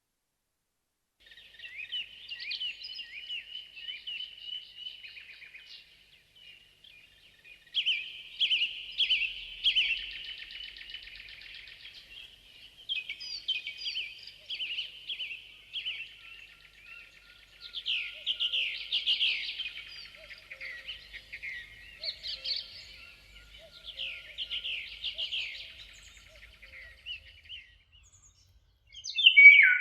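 A songbird singing in repeated phrases of quick high notes, each phrase lasting two or three seconds with short pauses between.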